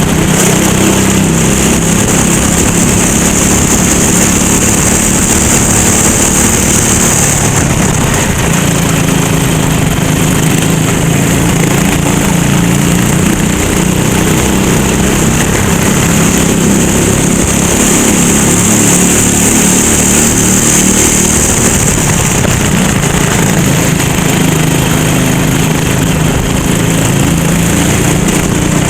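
Go-kart engine running under racing load, its pitch wavering up and down as it accelerates and lifts through the corners, with a high hiss over it for long stretches.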